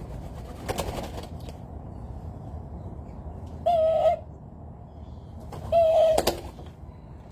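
A bird calling twice, each a loud, wavering half-second note, the calls about two seconds apart. A brief flurry of wingbeats comes about a second in.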